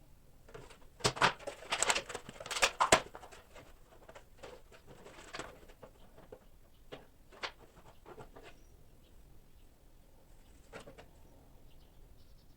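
Clicks, crackles and rustles of objects being handled at close range, dense for a couple of seconds about a second in, then thinning to scattered single clicks.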